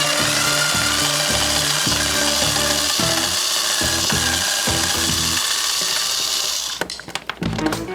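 A power tool running steadily with a harsh, hissing noise over background music, cutting off about seven seconds in.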